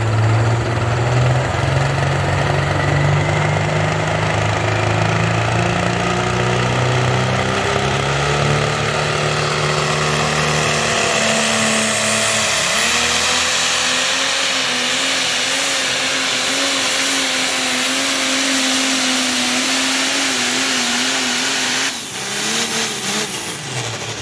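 Modified pulling tractor's diesel engine running hard under load. Its pitch climbs in steps, jumps higher about twelve seconds in and holds there with a slight wavering, then drops sharply and falls away near the end.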